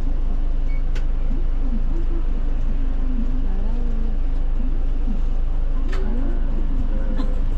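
Bus engine running with a steady low hum, with faint voices and a few sharp clicks over it.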